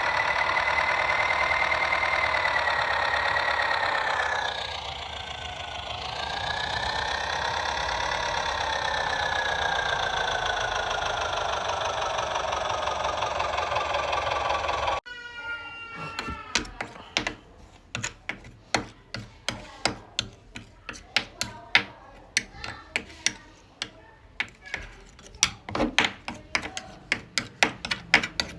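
A small motor whining, dropping in pitch for a couple of seconds as if strained and then slowly falling. It cuts off abruptly about halfway through, giving way to irregular sharp clicks and knocks, several a second.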